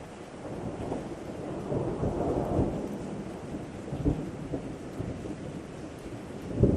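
Thunder rumbling over steady rain. The rumble swells about two seconds in, with sharper cracks about four seconds in and again near the end.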